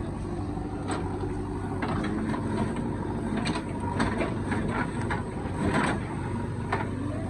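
Heavy diesel machinery engine running steadily, with several short knocks and clanks scattered through it.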